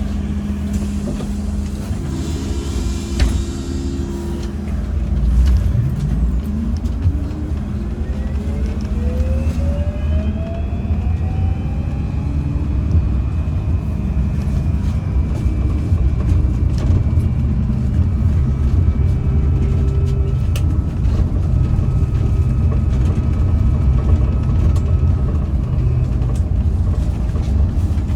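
MAZ-203T70 trolleybus pulling away from a stop: a brief hiss and knock about three seconds in, then the electric traction drive's whine rising in pitch as it accelerates and levelling off into a steady tone over the rumble of the running bus.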